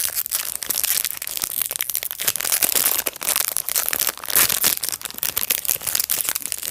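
Small plastic blind bag being torn open and crinkled by hand: a dense, continuous crackling and rustling of plastic wrapping.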